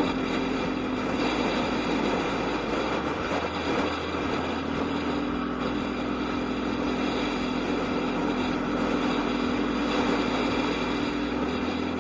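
Yamaha Aerox scooter engine running at a steady speed under way, over wind and road noise. Its note rises slightly about five seconds in.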